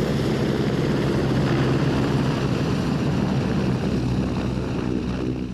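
Helicopter in flight: a steady rotor and engine drone with a rapid chop, easing off slightly near the end.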